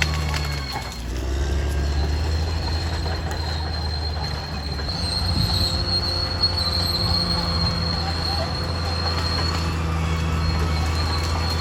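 Caterpillar D6R XL bulldozer's diesel engine running steadily, with a high, steady squeal from the steel tracks and undercarriage as the machine works. The engine sound dips briefly about a second in.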